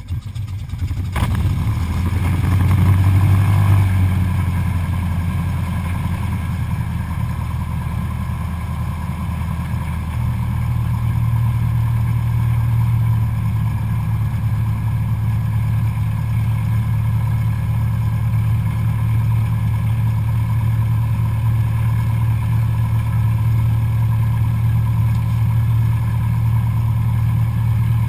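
Cessna 172SP Skyhawk's four-cylinder Lycoming IO-360 piston engine running steadily, its drone growing louder about ten seconds in as power comes up.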